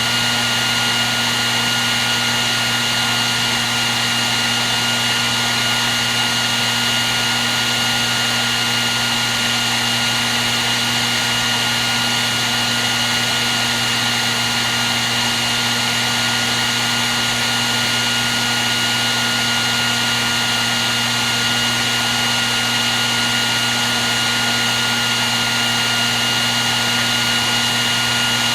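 Hair dryer running steadily at one setting: a constant rush of blown air over a low motor hum, with a thin high-pitched whine on top.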